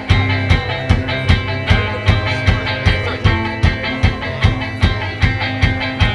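Live band playing an instrumental passage: a steady, even drum beat with bass and guitar.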